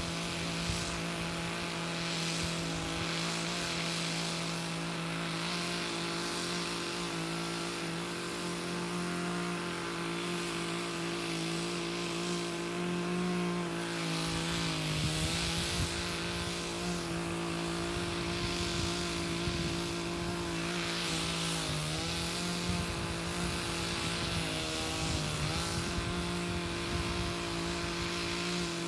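Two-stroke chainsaw running at high revs, cutting through raw logs. Its steady pitch sags briefly a few times as the chain bites into the wood, about halfway through and twice more near the end.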